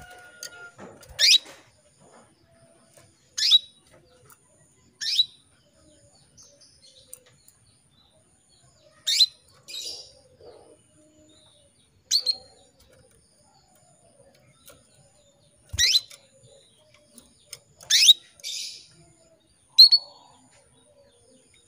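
Female domestic canary calling for a male, as a hen in breeding condition does: about eight short, sharp chirps, each a quick downward-sweeping note, spaced one to four seconds apart, a couple of them followed at once by a rougher second note.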